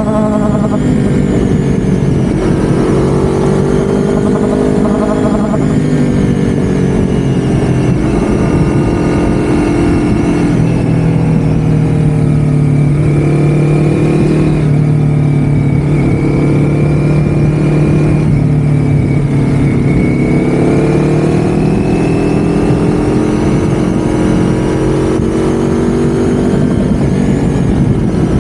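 Motor vehicle engine running under way, its pitch slowly rising and falling as the speed changes, over a heavy, steady low rumble of road and wind noise.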